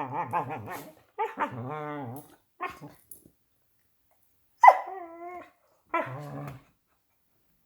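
Beagles vocalising while they play-fight: a run of pitched, wavering growls and howl-like moans, with a higher, wavering whine-like cry about five seconds in.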